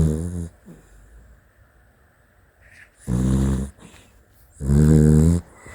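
Sleeping dachshund snoring loudly in deep, pitched snores: the end of one snore, then two more about three and four and a half seconds in.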